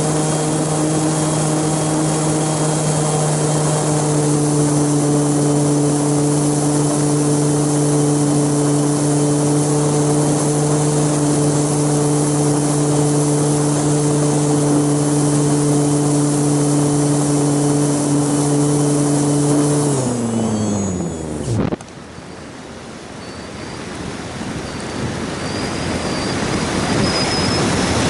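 A propeller aircraft's motor drones at a steady pitch, then is throttled off about twenty seconds in and spins down to a stop. A rush of wind builds afterwards as the craft glides on.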